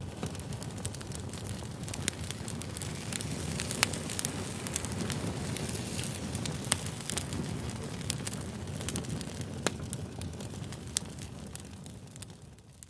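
Fire crackling: a steady low hiss and rustle dotted with frequent sharp pops, the loudest pop about four seconds in. It eases off a little near the end.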